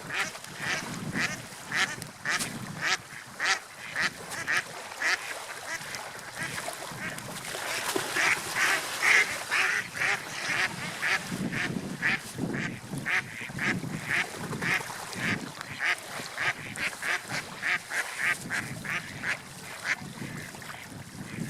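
Birds calling in short, quick calls, several a second, over a soft low background.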